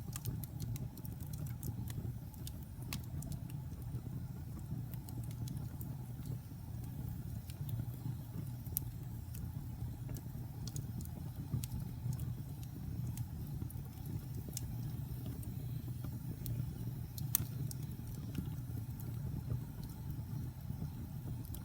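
Wood fire burning in a fireplace: a steady low rumble of flames with scattered crackles and pops of the burning wood, one sharper pop about three-quarters of the way through.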